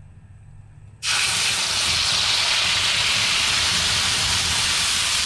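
Wet blended spice paste hitting hot oil in a wok and sizzling, starting suddenly about a second in and holding loud and steady.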